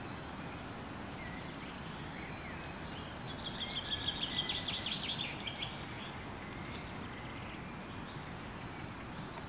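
A songbird singing a rapid trill of quickly repeated high notes for about two and a half seconds, starting about three seconds in, over a steady outdoor background hiss.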